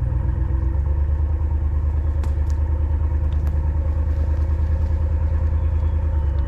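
Vehicle engine running steadily, with a few light clicks between about two and three and a half seconds in.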